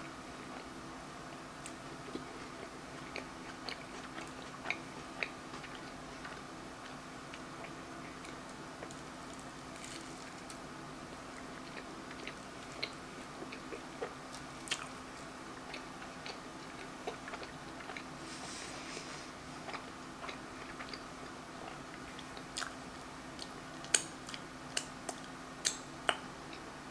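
Close-up eating sounds of a person chewing a slice of apple pie pizza: scattered wet mouth clicks and smacks, with a few louder ones near the end, over a faint steady hum.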